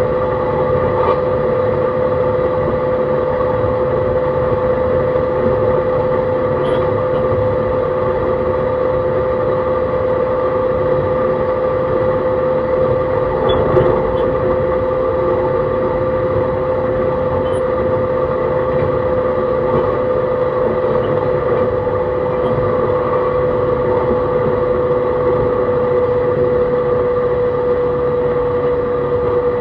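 JR East E131 series 600 electric train running at a steady speed, heard from on board. A steady motor whine sits over a constant rumble of wheels on rail, with a single knock about halfway through.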